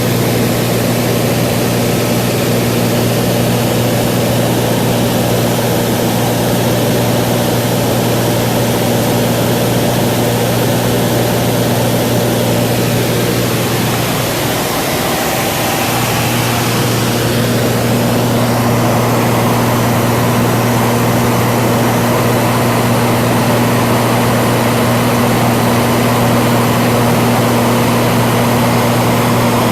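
Cessna 182 piston engine and propeller running steadily in flight, a loud even drone. About halfway through the drone briefly dips and wavers, then settles back to its steady note.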